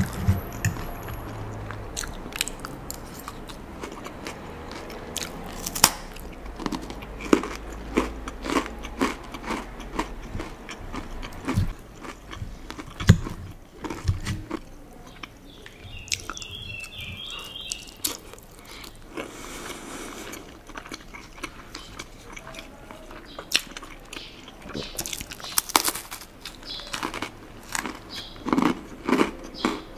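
Close-miked biting and chewing of crisp crackers: irregular sharp crunches with mouth sounds between them, coming thickest near the end.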